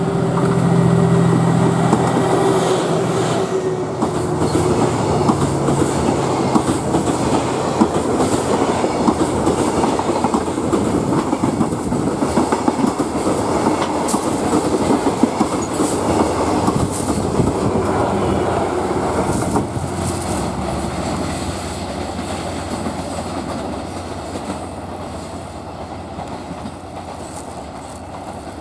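A freight train hauled by DF200 diesel locomotives passing close by: the locomotive's engine drone in the first few seconds, then a long run of freight wagons rumbling and clattering over rail joints, the clatter fading away toward the end.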